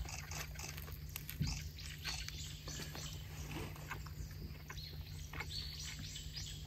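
A person biting into and chewing a baguette hot dog, the crusty bread crunching in scattered small clicks over a steady low hum.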